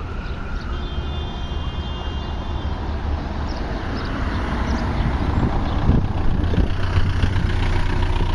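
Car and traffic rumble heard from inside a car's cabin: a steady low engine and road noise that grows louder over the second half, with a faint high steady tone lasting about two seconds starting about a second in.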